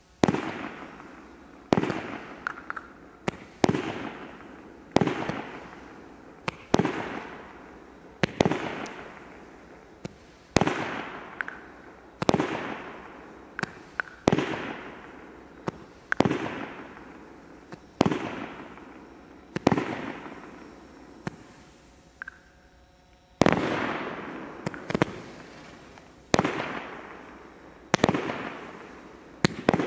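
Consumer fireworks battery firing: a sharp bang about every one and a half to two seconds, each followed by a fading crackle. A short lull comes about three quarters of the way through, then the shots resume.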